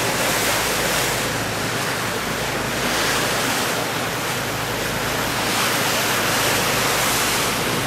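Sea water rushing past a boat, with wind buffeting the microphone; a steady wash that swells and eases.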